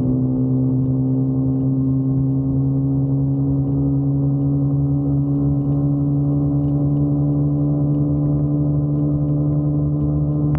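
Motorcycle engine running steadily at cruising speed, its drone rising slightly in pitch as the bike gathers speed.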